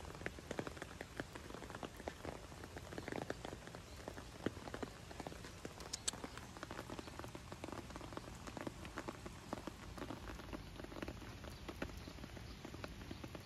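Steady rain falling on wet pavement, a dense scatter of small drop ticks.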